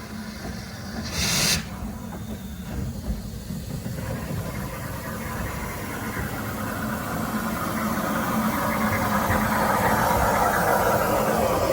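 Narrow-gauge steam locomotive hissing steam: a short sharp burst about a second in, then a hiss that grows steadily louder through the second half.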